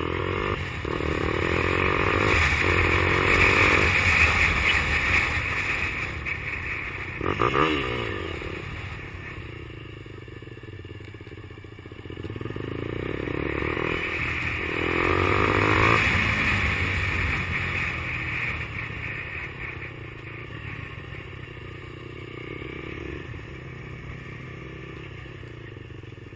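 Kymco Quannon 125's single-cylinder engine pulling away and easing off twice as the motorcycle rides, with its pitch rising through each pull and wind noise on the microphone. There is a brief clatter about seven seconds in.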